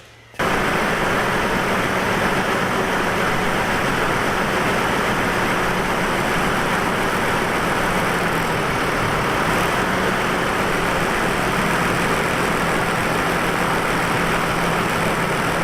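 2002 Chevy Trailblazer's 4.2-litre straight-six engine idling steadily with its mass airflow sensor unplugged. It starts abruptly about half a second in. The engine is misfiring on cylinder number 1.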